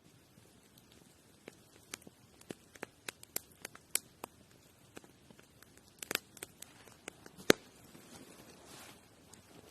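Irregular sharp clicks and snaps, scattered unevenly, with the loudest snap about three quarters of the way through, followed by a short soft rustle.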